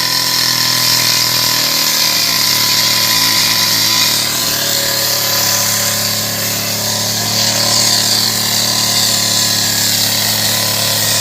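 A power tool or motor-driven machine running steadily at one constant pitch, with a hum and a high hiss, loud and unbroken throughout.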